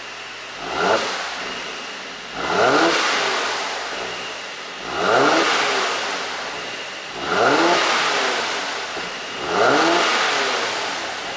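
Mercedes-AMG C43's twin-turbo V6 being blipped about five times, roughly every two and a half seconds. Each rev rises quickly and then falls away slowly, with the crackle of a pops-and-bangs tune on the overrun.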